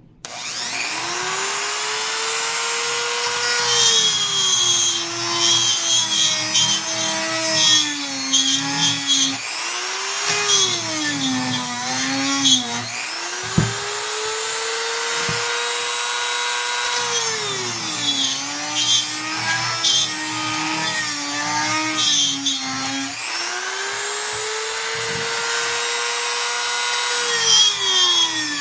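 Electric drill countersinking a screw hole in a wooden door jamb, so the screw head can sit below the surface. The motor winds up, then drops in pitch as the bit bites into the wood. It runs in several spells with short stops, and there is a single knock near the middle.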